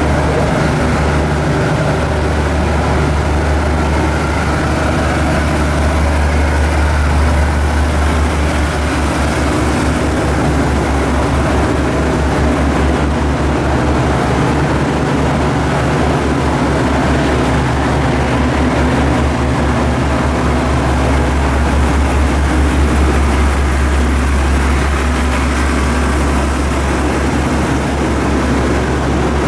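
Steady low rumble of a diesel train's engine, running on without a break.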